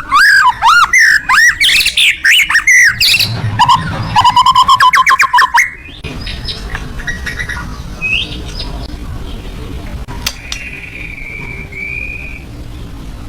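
White-rumped shama (murai batu) singing a loud, fast, varied song of whistled notes and rapid trills that stops abruptly about six seconds in; fainter scattered notes follow, with one long held whistle near the end.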